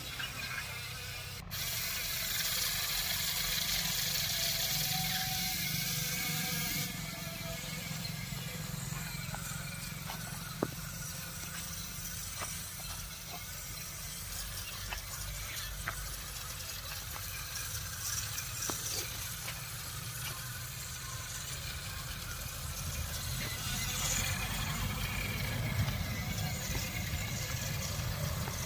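Tractor diesel engine running steadily at a low rumble. A loud hiss sounds for about five seconds near the start, with scattered faint clicks.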